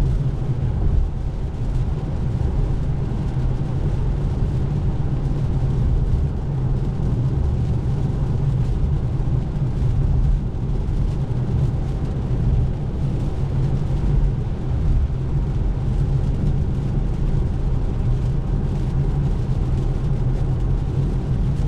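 Steady road and tyre noise inside a Tesla Model 3's cabin while driving on a rain-soaked road, mostly a low rumble with a fainter hiss of water and rain above it.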